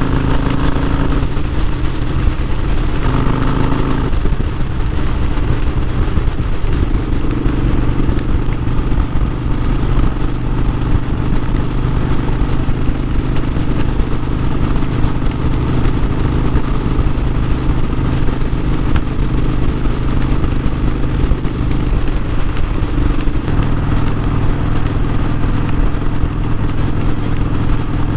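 Harley-Davidson Sportster 1200's air-cooled V-twin engine running under way as the motorcycle is ridden. Its note changes pitch a few times in the first four seconds and again about 23 seconds in.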